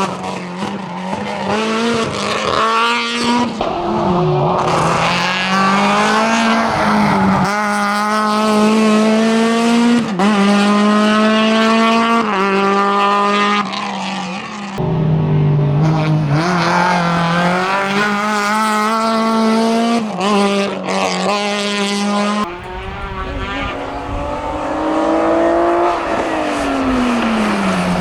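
Race car engine at full throttle on a hillclimb, revving up and dropping in pitch at each gear change, several times over, then a long falling pitch as it slows near the end.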